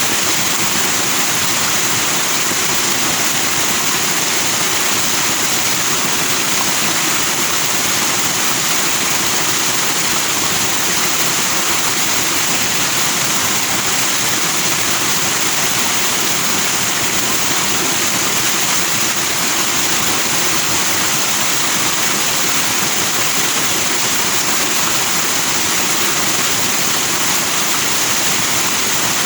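Forest stream rushing over rocks with white foam, a steady, even rush of water.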